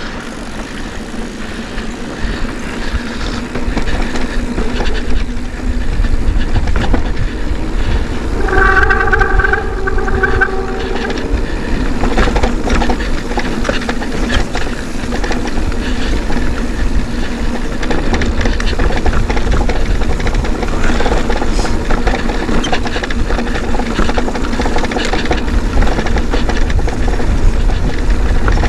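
A mountain bike riding a dirt trail: wind buffeting the microphone, with tyre noise and the bike rattling over the ground. About eight seconds in, a steady squeal lasts for a couple of seconds.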